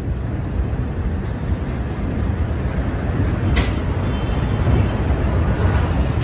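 Steady low rumbling noise, with one short sharp crack about three and a half seconds in.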